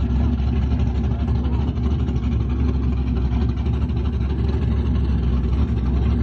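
Car engine idling steadily, with strong low-pitched sound and no revving.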